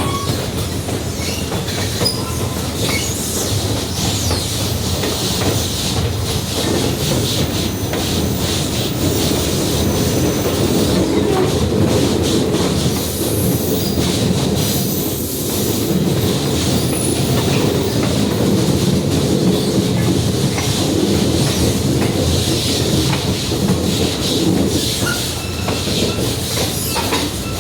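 Excursion passenger train rolling along the track, heard from aboard a car: a steady rumble of the wheels on the rails with clicking over the rail joints and some high wheel squeal at times.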